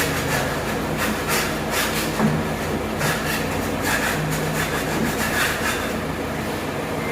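Repeated rough rubbing or scraping strokes, about two a second, over a steady low hum.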